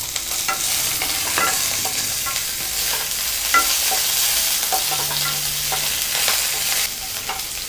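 Green chillies and curry leaves sizzling in hot oil in a nonstick pan as a South Indian tempering is fried, stirred with a wooden spatula. There is a steady sizzle with scattered light clicks, and it eases slightly near the end.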